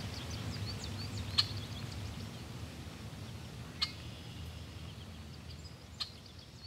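Faint outdoor ambience with scattered bird chirps and three sharp clicks, slowly fading out.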